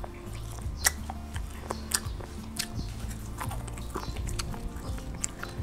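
Close-miked chewing of grilled cutlassfish, with about five sharp wet mouth clicks and smacks spread through the chewing, over soft background music.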